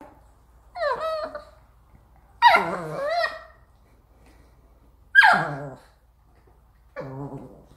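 Chihuahua vocalising: four short drawn-out calls that bend down and up in pitch, the second and third loudest.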